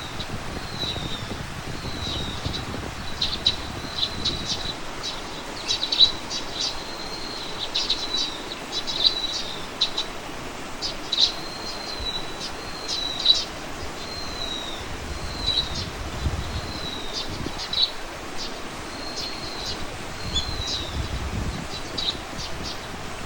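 Small birds chirping and calling throughout: quick high notes and short slurred whistles, repeated every second or so.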